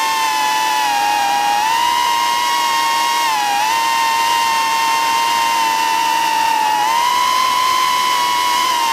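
Small quadcopter drone flying, its propellers giving a steady high whine whose pitch dips briefly about three and a half seconds in and shifts again near seven seconds.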